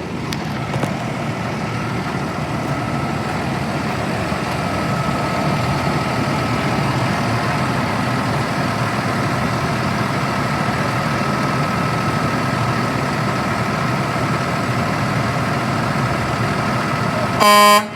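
Garbage truck's diesel engine running steadily with a thin steady whine, then a short, loud blast of the truck's horn near the end.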